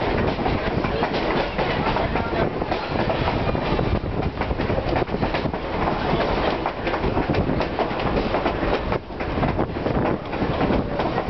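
Railroad passenger coach running along the track, heard from its open window: a steady rumble and clatter of steel wheels on the rails, with clickety-clack over the rail joints.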